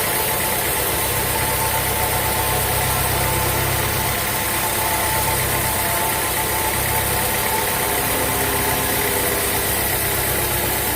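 Sawmill engine running steadily at an even speed, a constant hum with no change in pitch.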